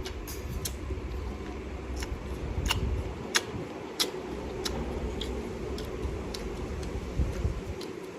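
Scattered sharp mouth clicks and crunches of someone eating fruit, over a steady low rumble and hum.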